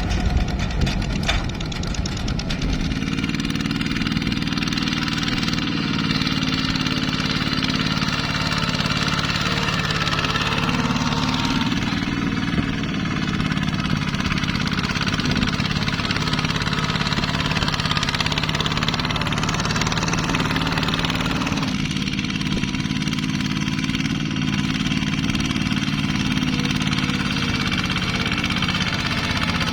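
Engine of a ZT 155 tractor running steadily under load, its pitch shifting a little twice.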